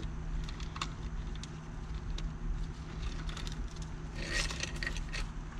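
Small metal engine parts clinking and rattling as they are handled during assembly, with scattered light clicks and a busier run of ringing clinks about four seconds in. A steady low hum runs underneath.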